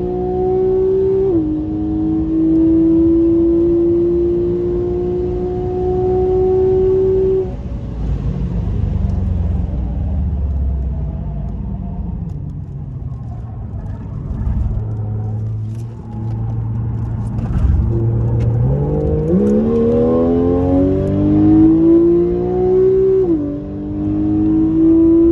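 Porsche GTS engine heard from inside the cabin under hard acceleration: a high note climbing slowly, with a quick upshift about a second in. At about seven and a half seconds the driver lifts off and it falls to a lower note with a few faint clicks. From about nineteen seconds the revs climb steeply again, with another upshift near the end.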